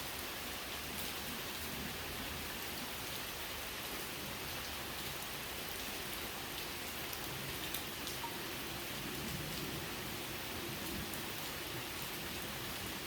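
Steady rainfall, with scattered individual drops ticking.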